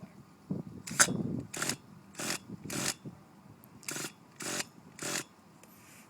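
Small nitro engine of a monster truck being cranked with its starter in seven short whirring bursts. It does not catch and run between them.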